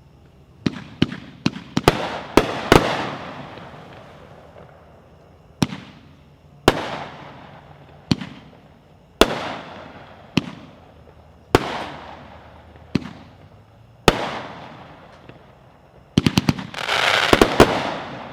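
A 20-shot consumer fireworks cake firing: a quick run of loud bangs in the first couple of seconds, then single shots about a second apart, each trailing off in a fading crackle. Near the end it fires a fast volley with a dense burst of crackling.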